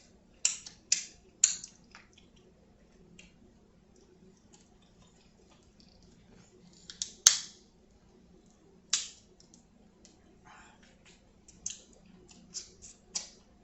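Close-miked eating sounds: scattered short, sharp, wet mouth clicks from chewing, about a dozen, the loudest one about seven seconds in and a quick run of them near the end.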